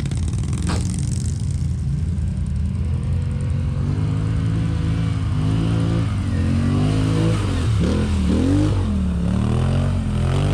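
ATV engine running at low revs, then revving up and down repeatedly from about four seconds in.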